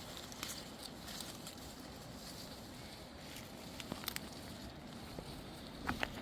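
Faint scattered clicks and light knocks over a low steady background, with a few sharper clicks about four seconds in and again near the end.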